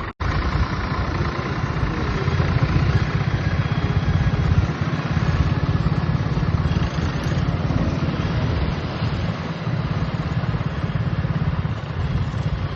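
Swaraj tractor's diesel engine running steadily at low revs, with a fast, even low chugging.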